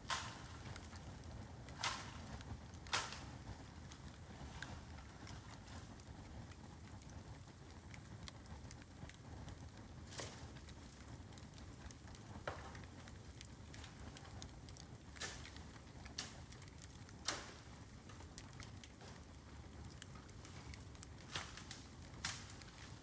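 Bamboo burning in a bonfire: a low steady rush of the fire with about ten sharp crackles and pops at irregular intervals, the loudest about three seconds in.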